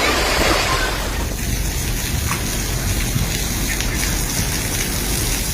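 Typhoon wind and heavy rain, the gusts buffeting the microphone with a low rumble under a steady hiss of rain.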